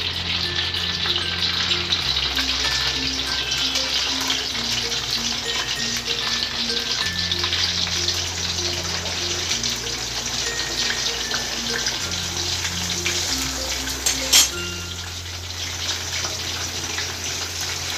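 Steamed, marinated chicken tikka pieces frying in hot oil in a wok, a steady dense sizzle and crackle, with a single sharp click about fourteen seconds in. Background music with slow bass notes plays underneath.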